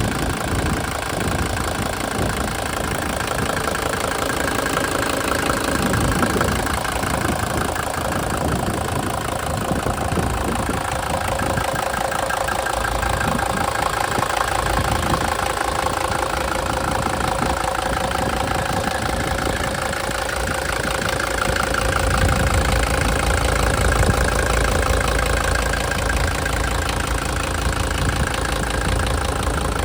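1975 Mercedes-Benz 300D's five-cylinder diesel engine idling steadily. Its low rumble gets heavier about two-thirds of the way through.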